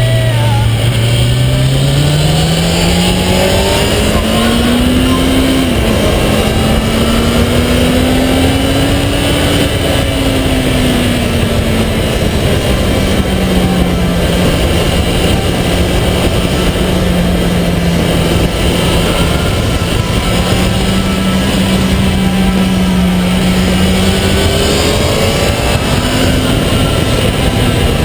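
Kawasaki ZX-10R inline-four sport bike engine at speed: the engine note climbs, drops sharply with an upshift about six seconds in, climbs again, then falls away and holds steady for a long stretch before rising once more near the end. A steady rush of wind noise runs underneath.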